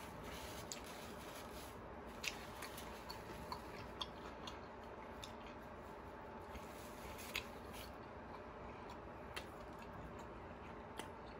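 Faint close-miked chewing of food, with scattered short mouth clicks and smacks every second or two over a steady low hiss.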